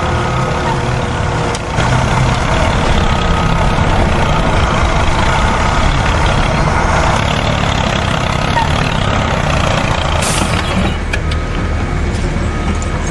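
Truck engine sound running steadily with a dense rumble, growing louder about two seconds in.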